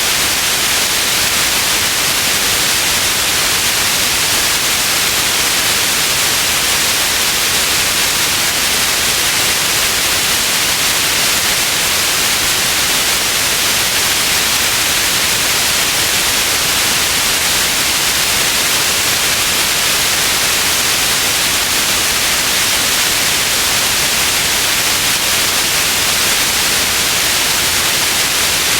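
Steady white noise: an even hiss, heavier in the high end, that does not change.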